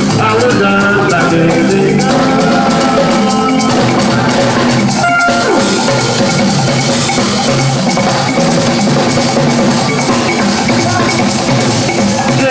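Live band playing upbeat music with drums and percussion, which drops out for a split second about five seconds in.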